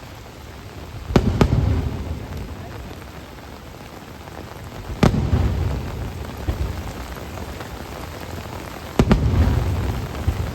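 Firework shells bursting: a double bang about a second in, one bang about five seconds in, and another double bang near nine seconds. Each is followed by a low rumbling echo, over a steady hiss of rain.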